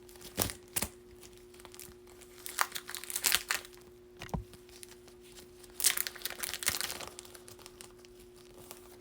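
Plastic card sleeve and top loader being handled: crinkling rustles in two bursts of about a second each, with a few sharp clicks in between, as a card is slipped into its protective holders.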